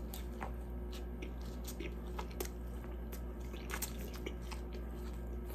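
A man biting into and chewing a mouthful of a McDonald's Quarter Pounder with cheese: scattered soft, wet mouth clicks and smacks, over a steady low hum.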